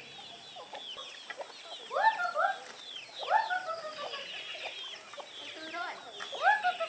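Chickens clucking and calling, a string of short calls with louder ones about two, three and six and a half seconds in.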